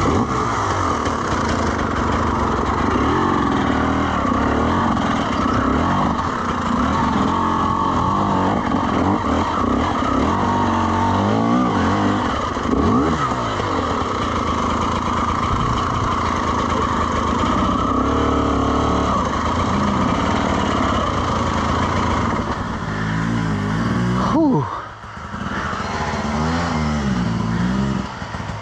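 Dirt bike engine running under varying throttle while riding a trail, its pitch rising and falling with the revs. About three-quarters of the way through the throttle is chopped and the revs fall away sharply, then pick back up.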